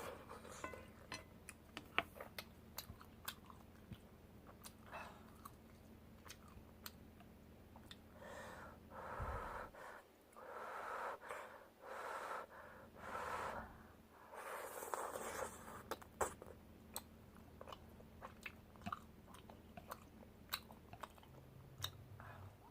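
Close-miked chewing of tteokbokki rice cakes, with many wet mouth clicks and smacks and a stretch of louder mouth sounds around the middle.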